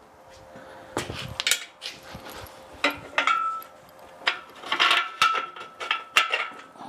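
Metal clanks and rattles from a steel engine hoist being wheeled and manoeuvred, with a short ringing metallic tone after one knock and a longer one in the second half.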